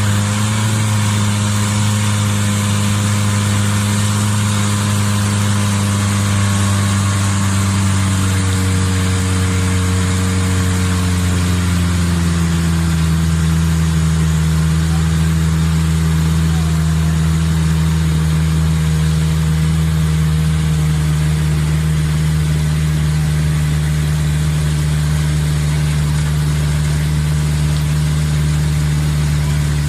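Boat's engine running steadily under way, its pitch dropping slightly about twelve seconds in and then holding.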